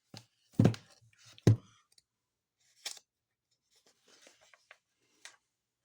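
Handling noise close to the microphone: three dull knocks in the first second and a half, then a sharp, brief rustle, then faint scraping and rustling.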